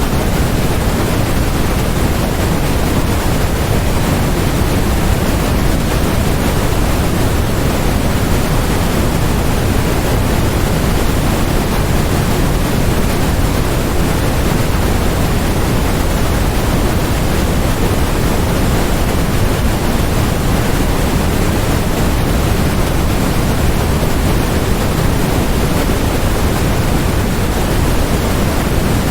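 Steady, unchanging generated noise: a constant, loud hiss with more weight in the low end than in the highs.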